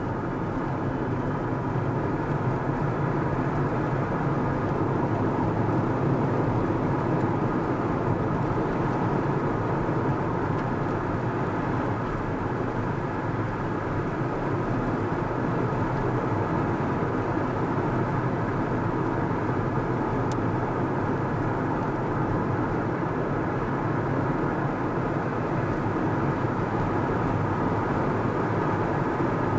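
A car driving along at a steady speed: an even rumble of tyres on the road and engine noise, unchanging throughout.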